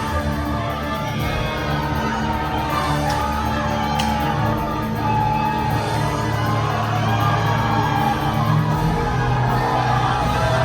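Show music playing loudly in a large arena, over a crowd cheering, whooping and shouting.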